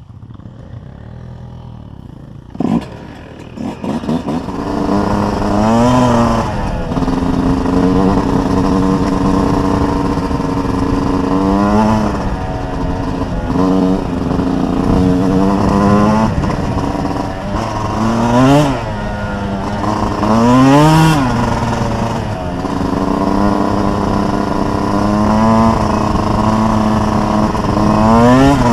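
Dirt bike engine under way, coming in loud about three seconds in after a brief knock. Its pitch climbs in several quick sweeps and drops back, with steady running between.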